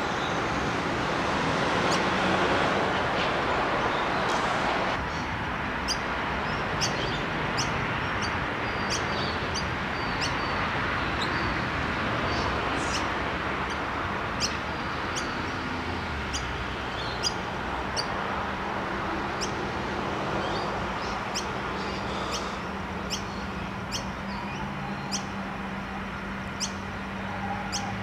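A bird giving short, high chirps about once a second over steady outdoor background noise. In the last ten seconds the low hum of an approaching Adelaide Metro 3000-class diesel railcar grows louder.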